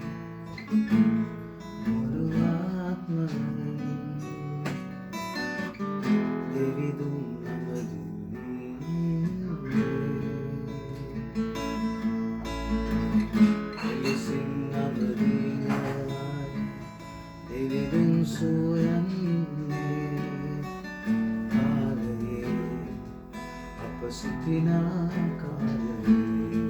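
Acoustic guitar strumming chords in a steady rhythm, an instrumental intro.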